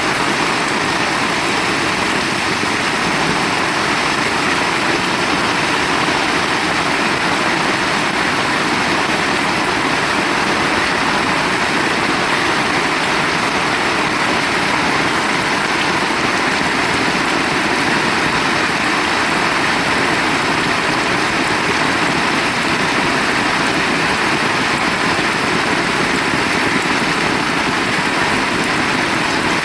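Heavy rain pouring down: a loud, dense, unbroken hiss.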